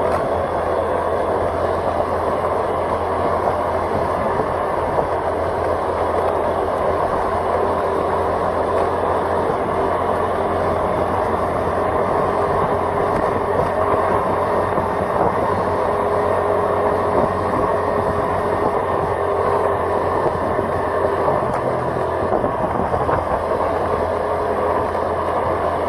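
Steady running noise of a vehicle on the move: an even engine hum under constant road and wind noise.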